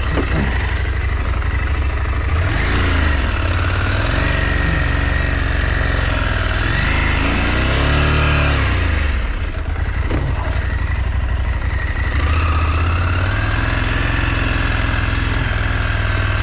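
KTM 890 Adventure's parallel-twin engine under way at low speed, its revs rising and falling several times as the throttle is opened and closed. About nine and a half seconds in, the revs drop briefly, then climb again a couple of seconds later.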